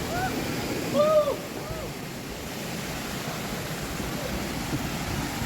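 Erawan waterfall rushing steadily. In the first two seconds it is joined by three short calls that each rise and fall in pitch.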